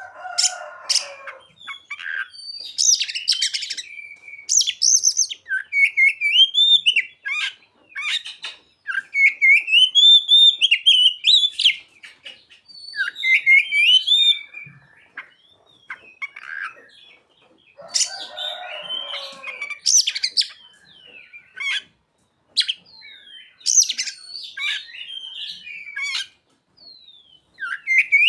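Oriental magpie-robin (kacer) singing a long, varied song of rising and falling whistled phrases, laced with mimicked calls of the bar-winged prinia (ciblek) and the sogon. Harsh, rasping chatters break in at the start and again about eighteen seconds in.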